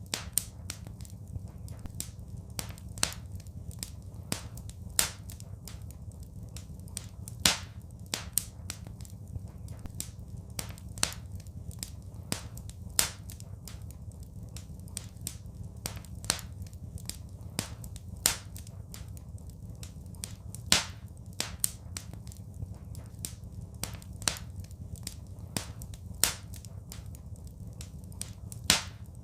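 Wood fire crackling in a fireplace: irregular sharp snaps and pops, a handful much louder than the rest, over a low steady rumble.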